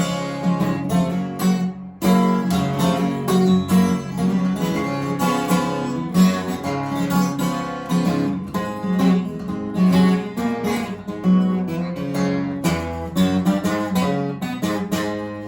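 Acoustic guitar playing an instrumental blues break: picked, rhythmic notes over a repeating bass note.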